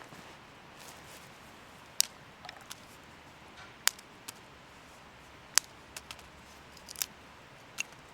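Wood campfire crackling: sharp, irregular pops over a faint low hiss.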